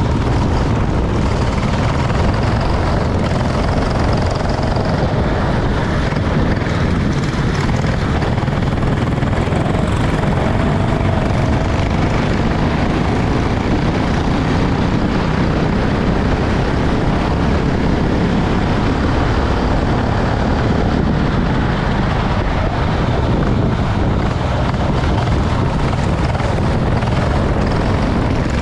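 Racing kart engine running at speed, a loud steady drone with a lot of noise over it.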